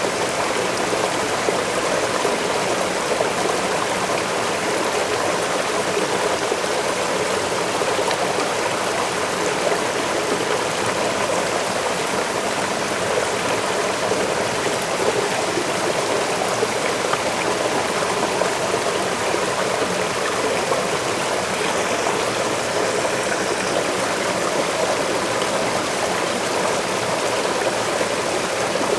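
Waterfall and the stream below it rushing steadily, a constant even roar of falling and flowing water.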